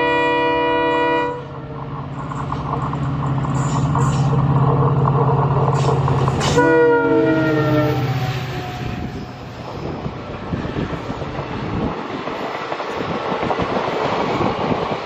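Indian Railways WDP-4D diesel locomotive passing close by. Its multi-tone horn chord cuts off about a second in while the EMD two-stroke diesel engine drones, and a second horn blast about six and a half seconds in drops in pitch as the locomotive goes past. The passenger coaches then rattle by, their wheels clacking on the rails.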